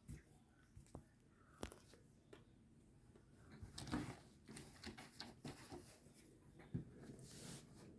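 Faint rustling of paper book pages being handled and turned, with a few small clicks.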